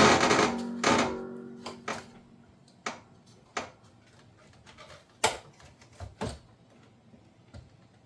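Metal parts of a dishwasher door being handled: a loud scraping clatter with a ringing metallic tone that dies away over the first second and a half, then scattered sharp clicks and taps.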